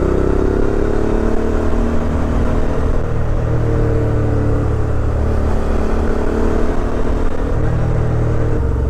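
Suzuki V-Strom 650 XT's V-twin engine running under way on a winding road, its pitch rising slightly in the first second and then holding steady.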